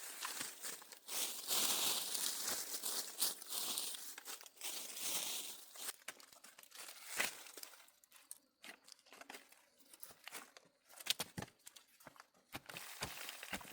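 Crinkling, tearing rustle of dry material being handled for about the first six seconds, then scattered light clicks and knocks.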